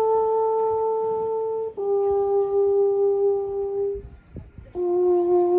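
Alphorn playing long held notes, each a step lower than the one before: two notes joined about two seconds in, then a short pause and a third, lower note that carries on.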